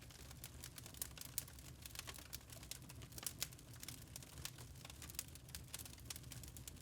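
Wood fire crackling in a fireplace: a dense stream of small irregular pops and snaps, a few sharper ones standing out, over a low rumble of the flames.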